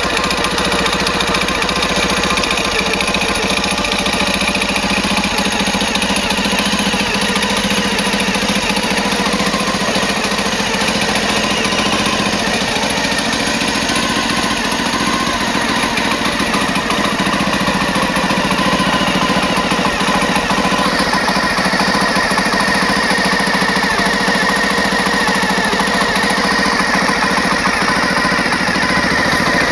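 Honda Dream 50 single-cylinder four-stroke engine, bored up to 89cc with a Takegawa kit, running steadily.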